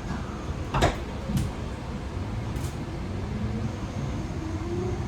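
Interior running sound of a Tokyo Metro 18000 series electric train: a steady low rumble with two sharp knocks about a second apart early on. Near the end the traction motors start a rising whine as the train begins to pull away.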